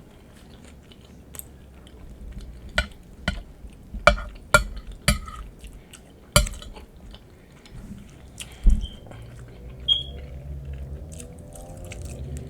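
Close-up eating of nachos: chewing, punctuated by about eight sharp clicks and knocks of a utensil against a dish.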